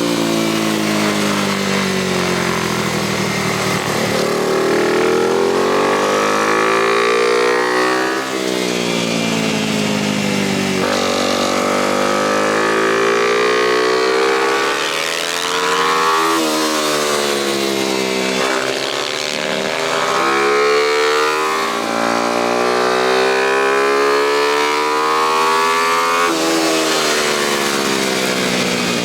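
Small single-cylinder four-stroke motorcycle engine at racing pace, its pitch climbing under throttle and then dropping sharply, over and over as it runs the laps.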